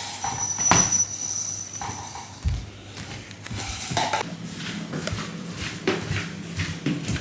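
Clinks and knocks of a dish or bowl being handled, scattered irregularly, with a thin high ringing tone during the first two seconds or so and one low thump midway.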